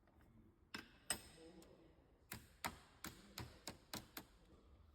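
About ten faint, sharp taps or clicks at an uneven pace, starting just under a second in.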